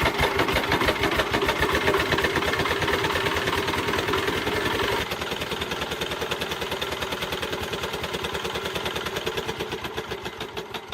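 Restored single-cylinder ZS1115 (D24) diesel engine running on its first test, with fast, even firing pulses. About halfway through it settles to a lower, quieter speed, and it fades further near the end.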